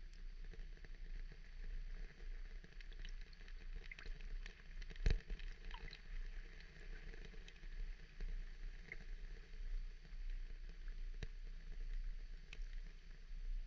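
Water ambience: a steady low rumble with scattered light ticks and crackles, and one louder knock about five seconds in.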